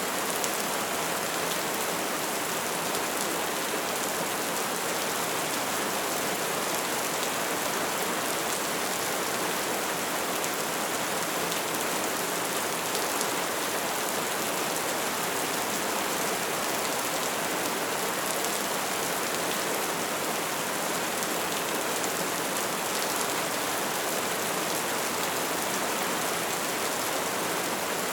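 Wood fire burning: a steady hiss with dense, fine crackling.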